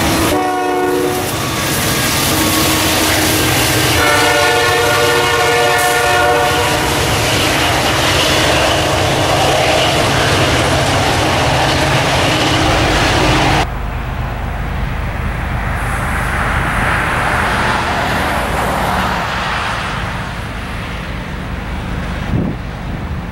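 CSX freight train passing close by: locomotive diesel engines and rolling cars rumble with wheel clatter, and a train horn sounds briefly at the start and again for about two seconds around four seconds in. After an abrupt cut about two-thirds through, a quieter, steadier rumble of another approaching CSX freight train, with some wind noise.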